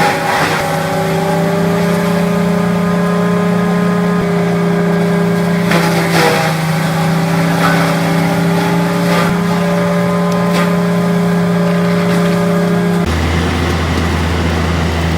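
Heavy wood-processing machine running at a steady, unchanging pitch, with a few sharp cracks of wood being broken up. About 13 seconds in the sound switches abruptly to a deeper steady drone.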